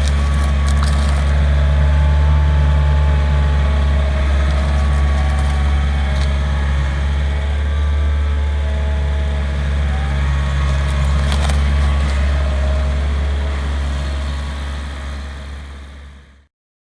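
2014 Mustang 2054 skid steer's diesel engine running at a steady speed, a constant low drone with a few light clicks, fading out near the end.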